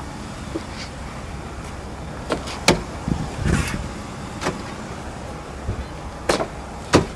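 Steady low hum of a car running with its air conditioning on, broken by about six sharp clicks and knocks, the loudest a couple of seconds in and near the end.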